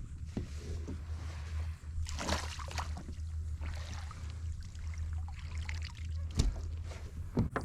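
Water splashing and trickling at a kayak's side, over a steady low wind rumble on the microphone, with a couple of sharp knocks near the end.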